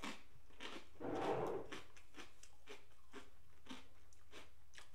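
Someone chewing a crunchy bagel chip loaded with cricket dip (crickets mixed with mayonnaise, everything bagel seasoning and Cholula): a run of short, crisp crunches, with a slightly longer, louder stretch about a second in.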